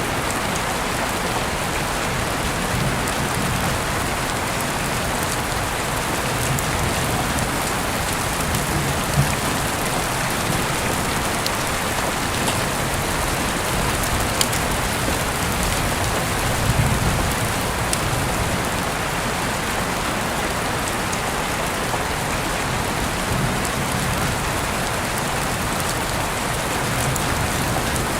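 Heavy rain falling steadily, a dense even hiss with scattered drop clicks, as heard through an open window.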